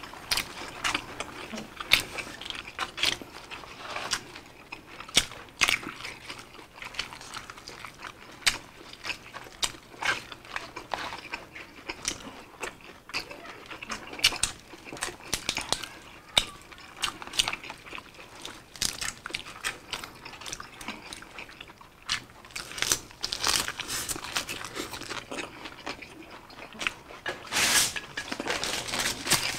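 Close-up eating sounds: chewing and crunching of lettuce-wrapped grilled pork belly, a steady run of short wet crunches and mouth clicks.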